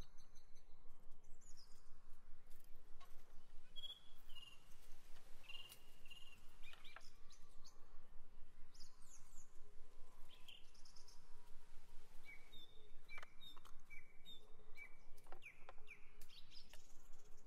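Wild birds chirping and calling: short, repeated high-pitched notes and whistles, with a few light clicks and taps from glass jars and ingredients being handled.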